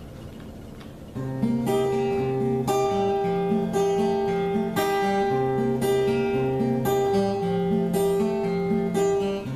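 Acoustic guitar playing a song's introduction. It comes in about a second in with a steady, repeating pattern of plucked bass notes and chords.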